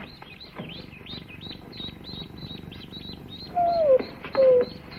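Newly hatched ducklings peeping, short high chirps about three or four a second. Near the end, two short falling whines from a collie.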